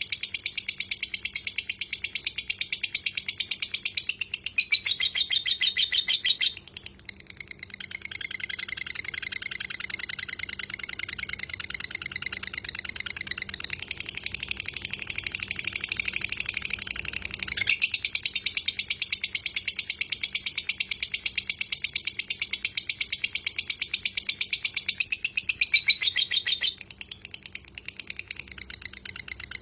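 Lovebird giving its long 'ngekek' chatter: a fast, unbroken rattle of high chirps held in runs of many seconds. It breaks off briefly about six seconds in and again near the end.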